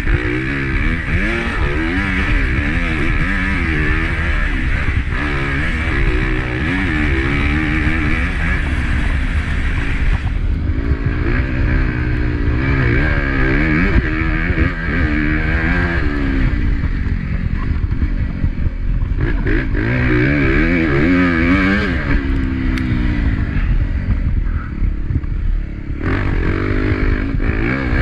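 Honda CRF250 motocross bike's single-cylinder four-stroke engine at race pace, the revs climbing and dropping over and over as the throttle is opened and shut.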